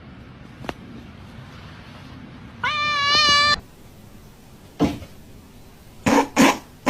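Domestic cat meowing once: a single drawn-out meow about a second long that rises in pitch at the start, then holds. A few short, sharp knocks follow near the end.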